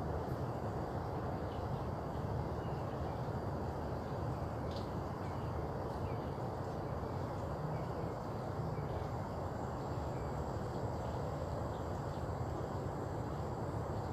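Outdoor ambience: a steady low rumble with faint scattered bird chirps and a thin, steady high insect tone.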